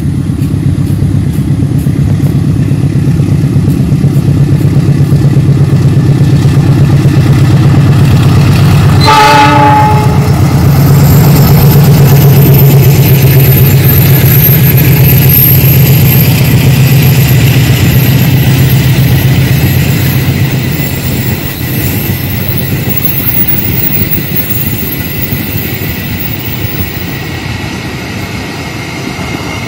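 CC 206 diesel-electric locomotive hauling a passenger train past, its engine a loud steady low drone, with a short horn blast about nine seconds in. The sound drops after about twenty seconds as the train runs off along the line.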